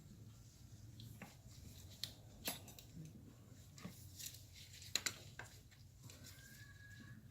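Scattered light clicks and taps of hand work on a car engine's air intake, as the intake tube is refitted; the sharpest come about two and a half and five seconds in. A short, faint high tone sounds near the end.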